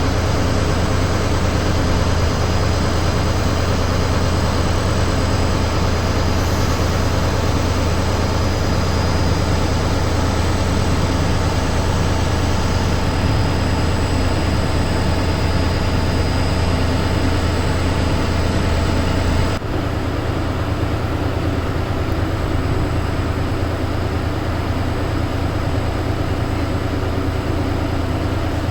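ZSSK Class 757 diesel-electric locomotive's engine running steadily with a heavy, deep hum. The sound shifts slightly about two-thirds of the way through.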